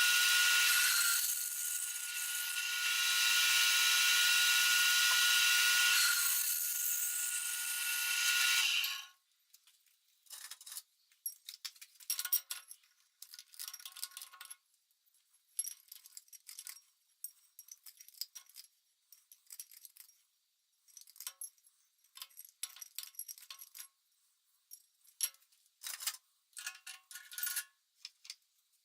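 A high-pitched power tool runs steadily for about nine seconds, easing off briefly twice, then stops suddenly. After that come short, irregular bursts of metal scraping and clinking from hand work on metal parts.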